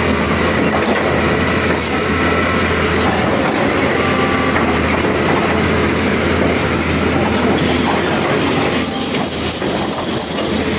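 Caterpillar 330D hydraulic excavator with its Cat C9 diesel engine running, a loud steady drone with dense mechanical clatter and noise over it.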